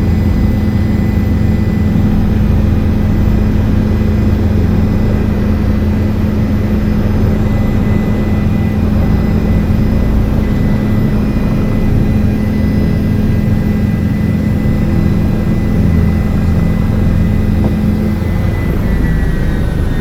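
Helicopter running, a loud steady drone of rotor and engine with a high turbine whine above it; the whine falls slightly in pitch near the end.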